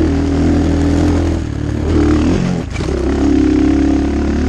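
Templar 250cc dirt bike engine running under steady throttle while riding. About two and a half seconds in, the engine note drops briefly and shifts in pitch, then it pulls steadily again.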